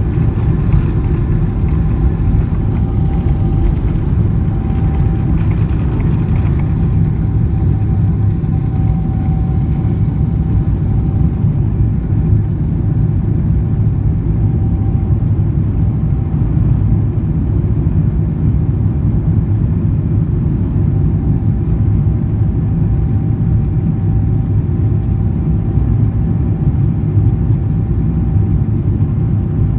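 Steady jet airliner cabin noise of a Boeing 777-300: a constant low rumble of engines and airflow with a faint steady whine above it.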